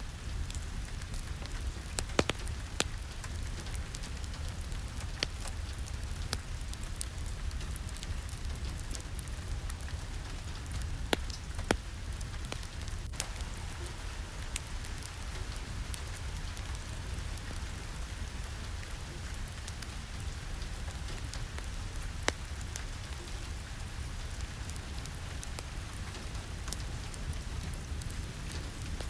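Steady rain falling, over a low rumble, with a few sharp crackling pops from a wood fire scattered through.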